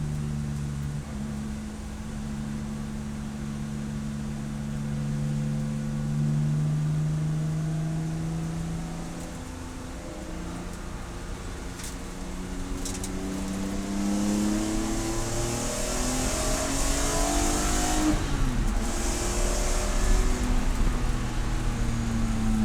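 Race car engine running hard, its pitch rising and falling again and again as the revs climb and drop.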